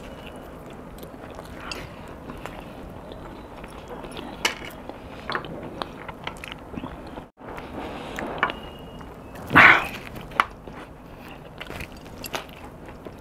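Close-up mouth sounds of a man biting into and chewing chicken pizza: wet smacking with many short sharp clicks. A louder burst of noise comes about ten seconds in, and the sound cuts out for a moment a little past halfway.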